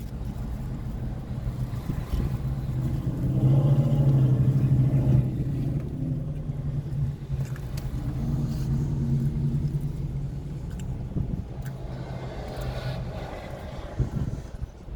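Car engine running with a steady low hum, swelling louder for a couple of seconds about four seconds in, then settling back.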